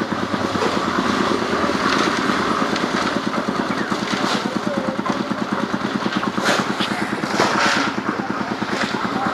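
Engine running steadily with rapid, even firing pulses.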